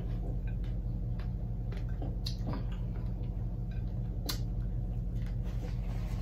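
Close-miked chewing of crispy fried chicken wings, with a few sharp crunching clicks, the clearest about two and four seconds in, over a steady low hum.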